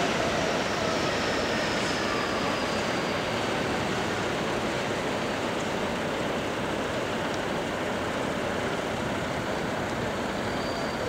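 Electric commuter train running along elevated tracks over steady city traffic noise, its faint whine falling in pitch over the first few seconds as the train noise slowly fades.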